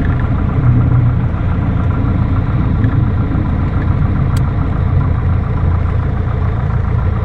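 Piper light aircraft's piston engine running steadily, an even drone that holds one pitch throughout.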